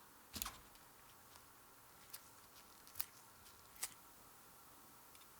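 Near silence broken by four light, sharp clicks spread over a few seconds, the first a little longer and fuller than the rest.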